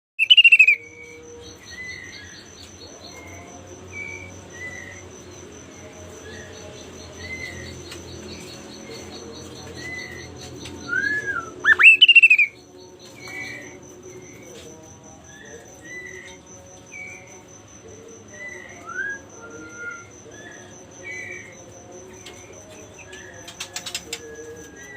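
A songbird singing a string of short whistled chirps about a second apart, with loud sharp calls at the start and about twelve seconds in. A faint, steady, high pulsing trill like an insect runs behind it.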